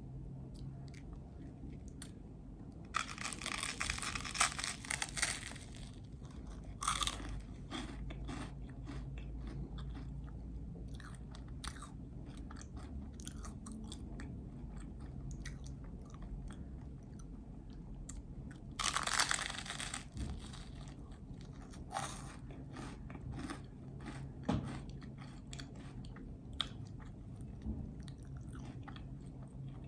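Close-miked biting and chewing of a peanut butter and jelly sandwich: two louder bites, a few seconds in and again about two-thirds through, with chewing and mouth clicks between them, over a steady low hum.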